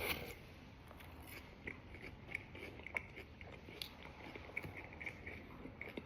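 Faint chewing of fries, with small irregular mouth clicks a few times a second.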